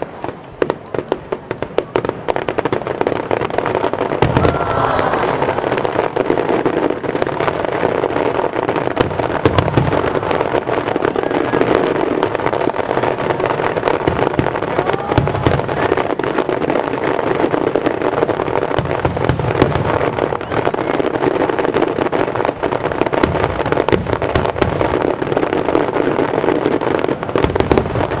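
Fireworks display: a rapid barrage of shell bursts and dense crackling, a few separate cracks at first, then building into a continuous volley after about two seconds.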